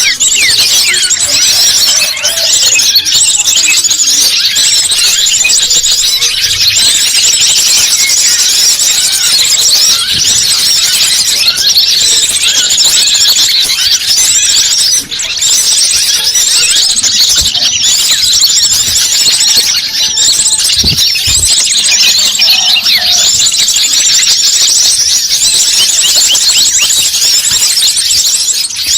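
A loud, dense chorus of small birds twittering: a rapid, unbroken stream of high chirps and short sliding notes, as used in a bird-lure (pikat) recording.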